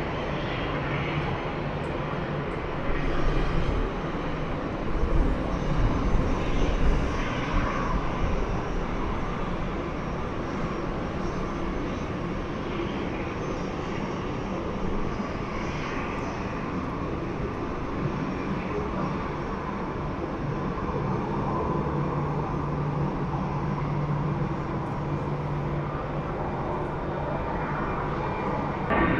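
Airliner engines running, a steady broad noise, with louder low rumbling a few seconds in.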